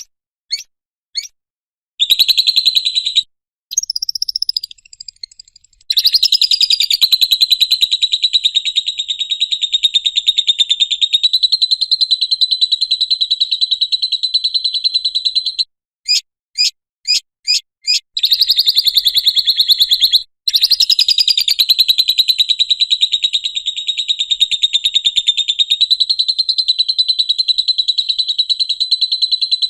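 Lovebird giving its 'ngekek' call: long, very rapid chattering trills held for up to about ten seconds at a time, broken by a few short separate chirps.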